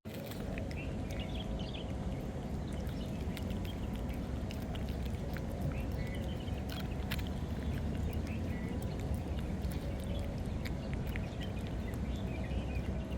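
Outdoor ambience: a steady low rumble with faint scattered ticks and a few short, faint bird chirps now and then.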